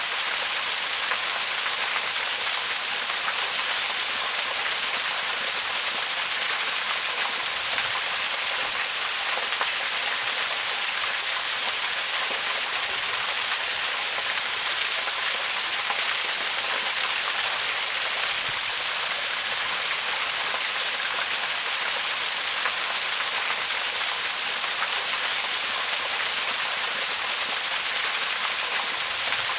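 Waterfall: a steady, unbroken hiss of falling water, mostly high-pitched with little low rumble.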